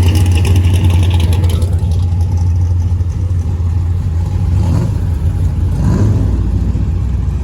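A car engine running loudly close by with a low exhaust rumble, rising briefly about five and six seconds in.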